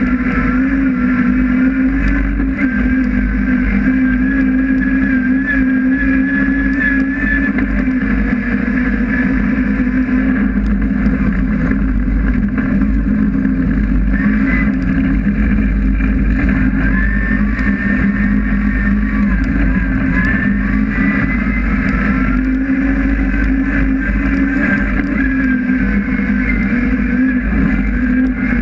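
Honda S2000's 2.4-litre 16-valve four-cylinder engine running hard at high revs, heard from inside the race car's cabin, its pitch rising and falling again and again with the throttle.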